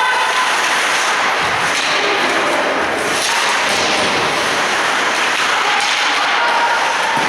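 Steady din of an ice hockey game in a rink: voices of players and spectators shouting over the hiss and scrape of skates on the ice, with a few sharp knocks of sticks and puck.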